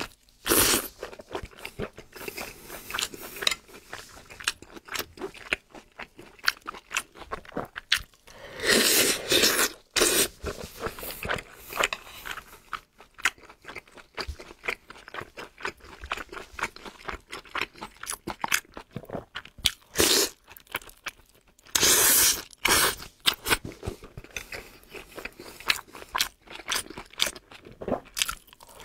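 Close-miked eating sounds: a person biting and chewing dumplings and a spicy, sauce-coated food, with many wet, crunchy snaps and smacks and a few longer, louder stretches about a third of the way in and again about three quarters of the way through.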